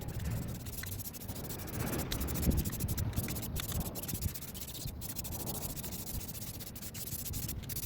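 Wind buffeting the microphone: an uneven low rumble that swells and eases, with fainter rustling above it.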